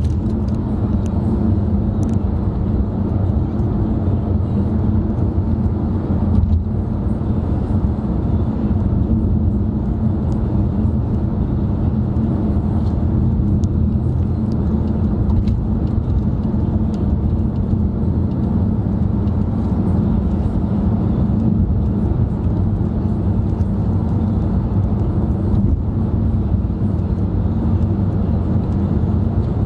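Steady road and engine noise heard inside a moving car's cabin: a constant low rumble.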